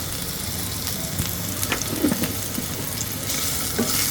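Chopped capsicum sizzling in a little oil in a frying pan, with a few light clicks of a utensil against the pan; the sizzle grows louder near the end.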